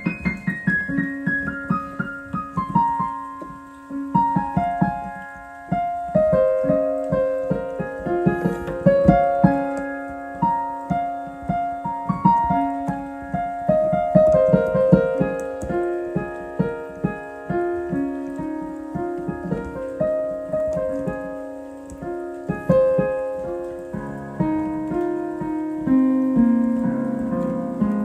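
Solo piano played improvisationally: a line of single notes stepping down from high to middle register over a quickly repeated lower note, moving into fuller chords in the lower range near the end.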